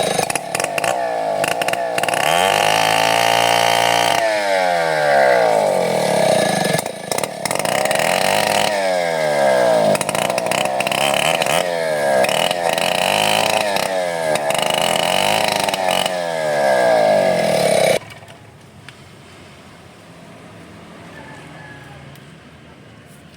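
Two-stroke chainsaw running at high revs and cutting wood, its pitch repeatedly rising and falling as it bogs under load and frees up, then cutting out suddenly about three-quarters of the way through.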